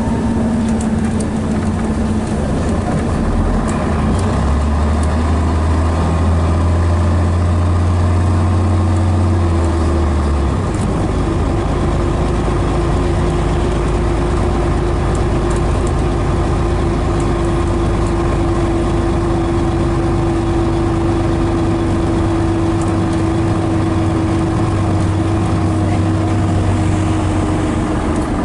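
Scania DS11 diesel engine of a Scania BR111DH / MCW Metropolitan double-decker bus running with a steady drone; its pitch steps up about ten seconds in and drops again near the end.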